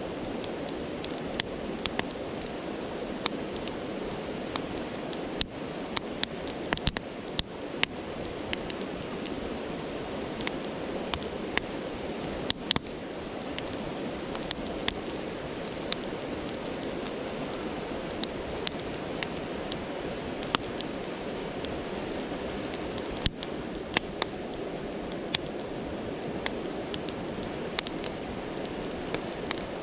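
A campfire crackling, with sharp, irregular pops scattered over the steady rush of a brook.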